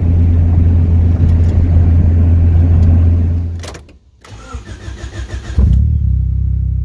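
Turbocharged Honda Civic D16Z6 SOHC four-cylinder engine running steadily while driving, heard from inside the cabin. After a break, the starter cranks the engine in a quick even rhythm for about a second and a half, then it fires and settles into an idle.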